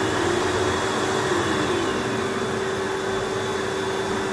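Electric hair dryer running steadily: a rush of blown air with a constant motor whine over it, drying hair after swimming.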